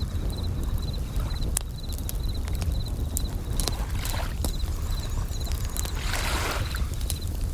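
Layered nature sounds: a campfire crackling with scattered sharp pops, bell crickets chirping in a steady pulse about twice a second, and waves washing in twice over a low rumble.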